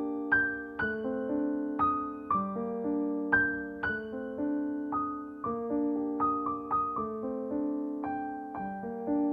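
Slow, gentle solo piano music: single notes struck over held chords, each note ringing and fading.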